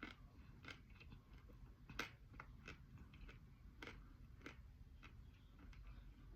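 Close-up chewing of crunchy edible clay: a string of sharp, quiet crunches about every half second to a second, the loudest about two seconds in.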